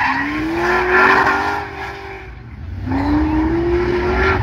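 LS3 6.2-litre V8 of a swapped small pickup revving hard through a burnout, its pitch climbing in two long pulls with a brief lull between them. Spinning tyres hiss underneath.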